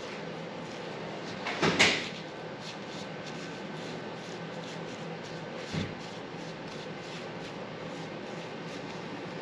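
A short, loud clatter of a few quick knocks, then a single fainter knock a few seconds later, over a steady low hum.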